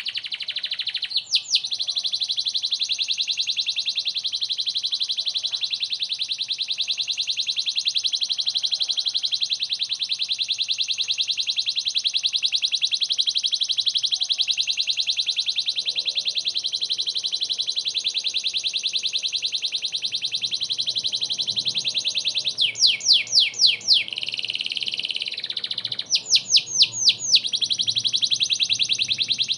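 Canary singing: one long, very fast rolling trill, broken near the end by two runs of loud, repeated sweeping notes, about five or six each, before the roll picks up again.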